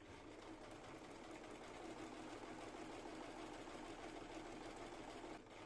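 Sewing machine running steadily as it stitches, with a brief dip near the end.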